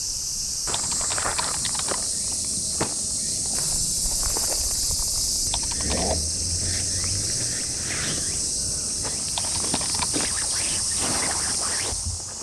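A steady high-pitched chorus of summer insects, with a rapid pulsing call joining for about two seconds around four seconds in. Scattered light clicks and knocks sound beneath it.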